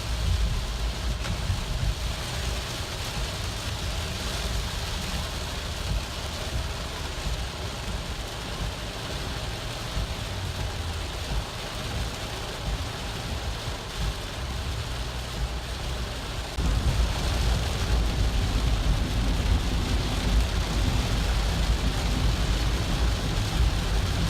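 Heavy rain falling, an even hiss over a low rumble; the rumble gets louder about sixteen seconds in.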